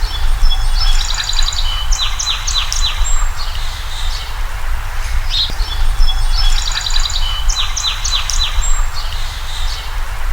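Songbirds chirping and trilling in rapid high series. The same sequence of calls comes round again about every six seconds, over a steady low rumble.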